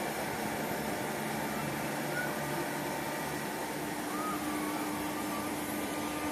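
Coaches of a locomotive-hauled SNCF TER train rolling slowly along a station platform, a steady rumble of wheels on the rails as the train gathers speed. A faint steady hum comes in about halfway through.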